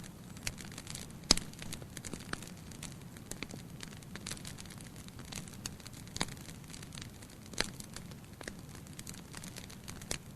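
Campfire crackling: burning wood giving off a steady scatter of irregular small snaps, with three louder pops, over a low steady background.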